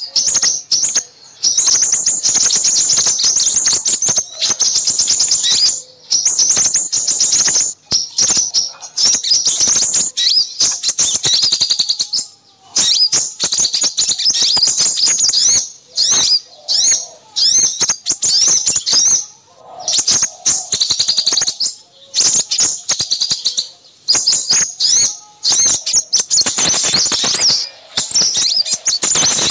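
Small songbirds twittering and chirping in rapid, high-pitched runs broken by short pauses: a noisy small-bird lure call used to draw in crimson sunbirds.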